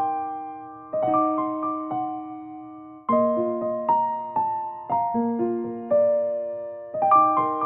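Background piano music: gentle chords and melody notes struck about once a second, each decaying.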